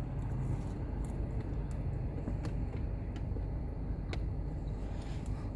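Steady low rumble inside a car cabin, with scattered faint clicks of chewing and wrapper handling as a wrap is eaten.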